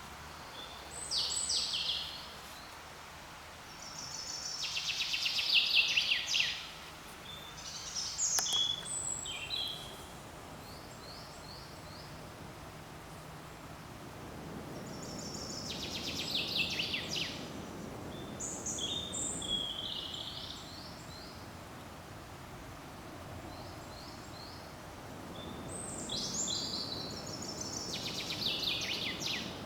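Songbirds singing in short, high, trilling and whistled phrases, about seven phrases spaced a few seconds apart, over a steady forest background of soft rushing that swells twice.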